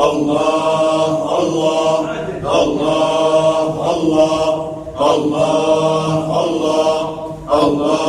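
Sufi dhikr chanting: a group of voices chanting in unison, one drawn-out phrase repeated about every two and a half seconds in a steady rhythm.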